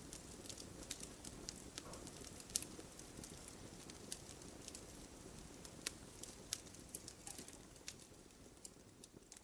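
Wood fire crackling: frequent sharp pops and snaps of burning wood over a low steady rush of flame, slowly fading near the end.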